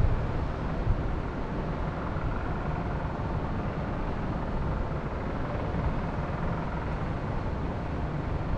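Wind blowing steadily, buffeting the microphone with a low rumble, a stronger gust right at the start.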